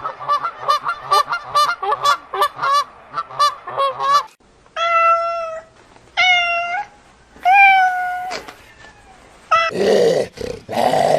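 A rapid run of short honking calls, about four a second, then a cat meowing three times in long, drawn-out meows. A few harsh, noisy grunts follow near the end.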